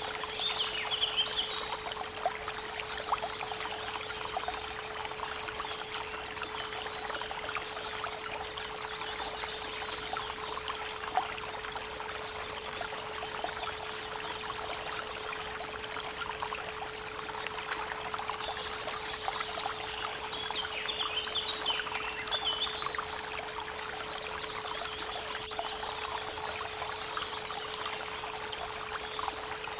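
Creek water running and trickling, with birds singing now and then, over a steady pure tone at 432 Hz.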